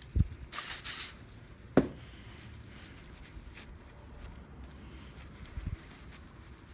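Small lock parts being handled at a workbench. There is a soft knock, a brief rubbing hiss, and a sharp click about two seconds in, then another soft knock near the end.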